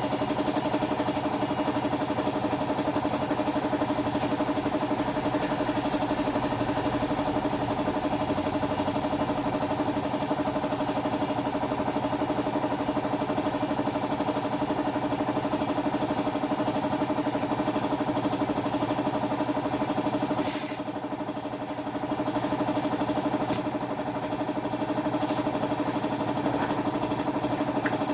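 A steady engine or motor hum holding one pitch, dipping briefly about twenty seconds in.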